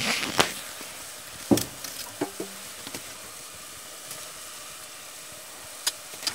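Food frying with a steady sizzle, broken by a few sharp knocks or clicks, the loudest about a second and a half in.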